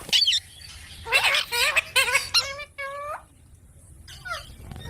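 Green parrot calling and chattering in short, squawky bursts. The calls bunch up through the first three seconds, pause briefly, and start again near the end.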